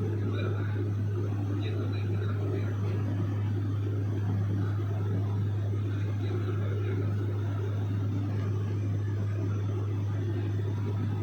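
Small private airplane's engine and propeller droning steadily, a constant low hum with no change in pitch or level.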